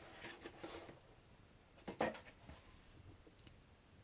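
Quiet room with faint handling noise and one sharp click about two seconds in.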